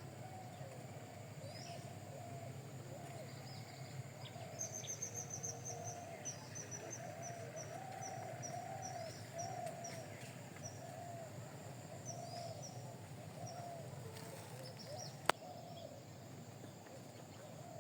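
Birds chirping and calling. About four seconds in, a fast run of short high chirps starts and slows over several seconds, over lower wavering calls. A single sharp click comes near the end.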